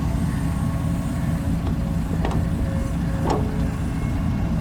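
Dump truck's diesel engine running steadily, with a low rumble. A few short knocks sound over it about halfway through.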